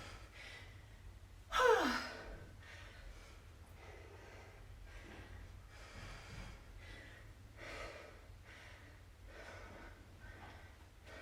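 A woman breathing hard after a kettlebell set: a loud voiced sigh falling in pitch about two seconds in, then slower, softer breaths about once a second as she recovers.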